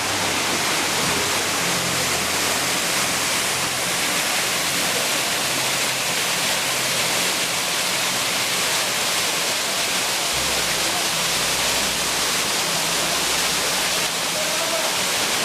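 Steady rush of fast-flowing water from a river or cascade.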